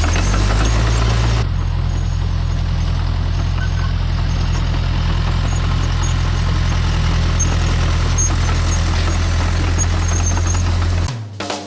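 Engine of earth-moving equipment running steadily while working dirt; its sound shifts abruptly about a second and a half in and cuts off suddenly near the end, where guitar music comes in.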